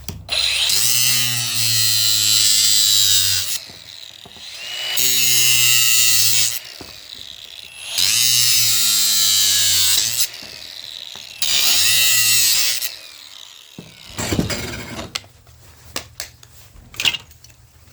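A handheld power drill-driver runs in four bursts of one and a half to three seconds, each spinning up and then holding steady, while a small electric fan motor is taken apart. Near the end come a few clicks and clatters of parts being handled.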